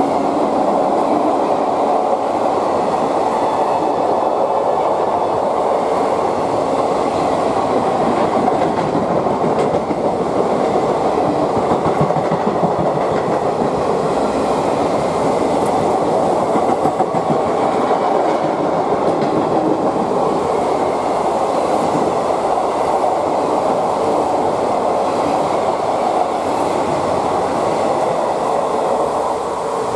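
Passenger coaches of an express train running past at speed: a steady, loud rumble and clatter of wheels on the rails.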